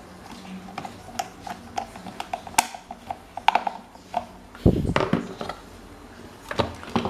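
Metal fan parts and hand tools being handled and fitted: a string of light irregular clicks and taps, a heavier knock about five seconds in, and two more knocks near the end.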